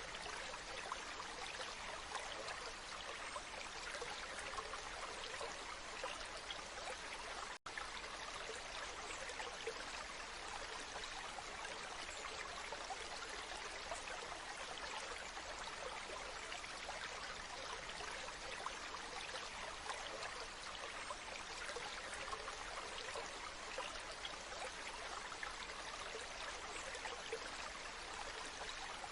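Waterfall: a steady, even rush of falling and splashing water, cut by a split-second dropout about seven and a half seconds in.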